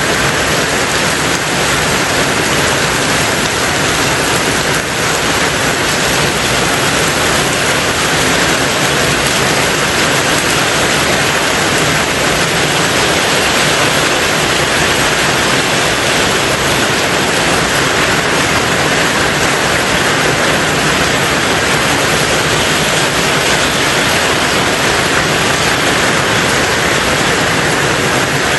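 Rain falling on a tin roof, a steady, dense hiss with no let-up.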